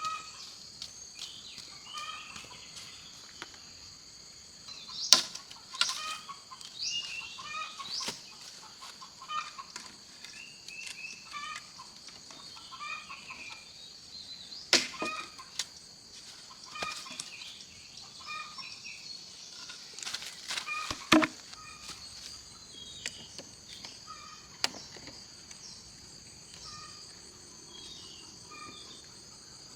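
Chickens clucking in short repeated calls over a steady high insect drone, with a few sharp knocks or snaps standing out above them.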